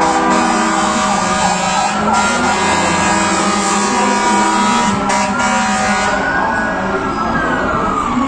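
Many truck air horns blaring at once, with sirens wailing over them. The horn chorus thins at about six seconds while one siren sweeps slowly up and back down.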